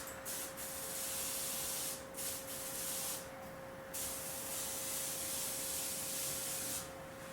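Airbrush spraying a thin mist of paint in three bursts of hiss with short gaps between them, stopping shortly before the end. A faint steady hum runs underneath.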